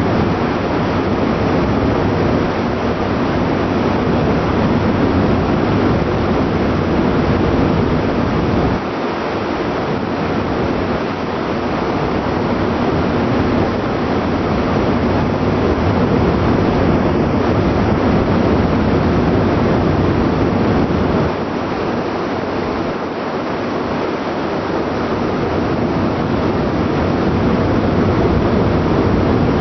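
Steady rush of wind and sea aboard a moving ship, with the ship's machinery mixed in; the noise drops slightly in level twice, about 9 and 21 seconds in.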